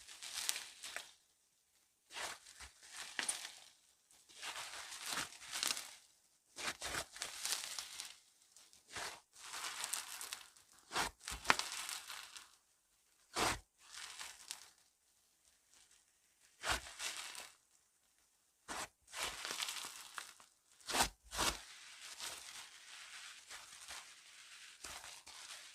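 Slime being squished, stretched and pressed by hand, crackling and popping in bursts every second or two, with a few sharp pops.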